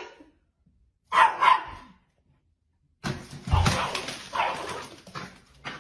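A dog barking twice in quick succession, followed after a short pause by a stretch of mixed noise with a low thud.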